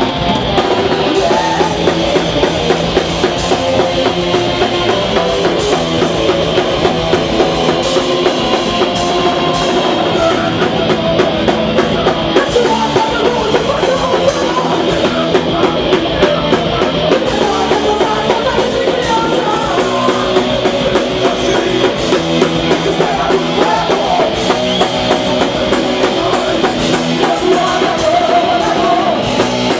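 Hardcore punk band playing live: distorted electric guitars and bass over fast, driving drums.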